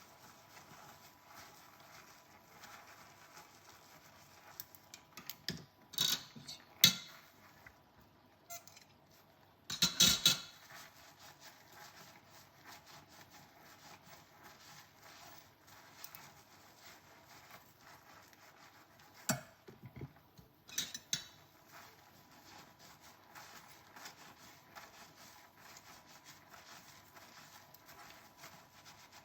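Dishes being washed by hand: a faint, steady rustle of handling broken by a few sharp clinks of crockery and cutlery. The loudest clinks come in a short cluster about ten seconds in, with a few more near the start and towards the middle.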